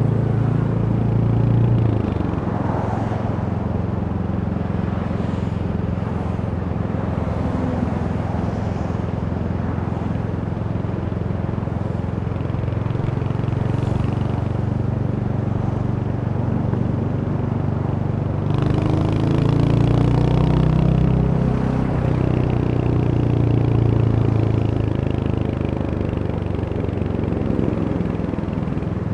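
Royal Enfield Hunter 350's single-cylinder engine running under way, with road and wind noise; the engine note climbs and grows louder for a few seconds about two-thirds of the way through as the bike accelerates.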